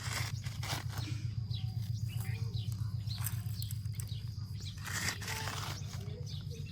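Birds chirping in short calls over a steady low hum, with two brief rushing noises, one at the start and one about five seconds in.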